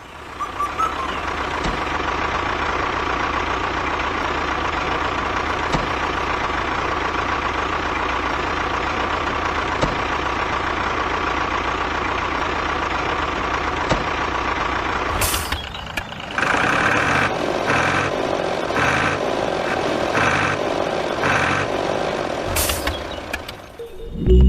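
DIY mini tractor's engine running steadily. After a short break about fifteen seconds in, it goes on in a pulsing rhythm of about one and a half beats a second, then fades near the end.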